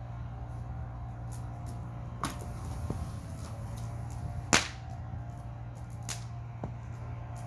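Burning firewood crackling, with a few sharp pops spaced a second or two apart; the loudest pop comes about halfway through.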